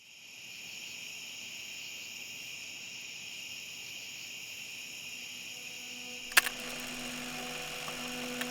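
Crickets chirring steadily, fading in at the start. About six seconds in, low sustained music notes enter and a sharp click sounds.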